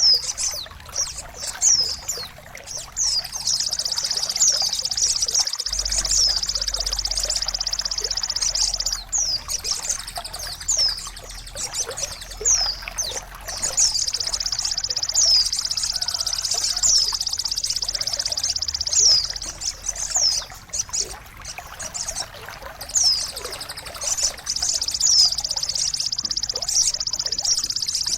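Small songbirds chirping over trickling water: quick high descending notes repeat every second or so above a steady high trill.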